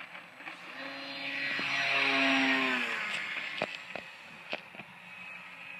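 Battery-electric radio-controlled Super Cub model plane flying past: its motor and propeller whine swells, peaks about two seconds in, and drops in pitch as it goes by, then fades. A few faint clicks follow.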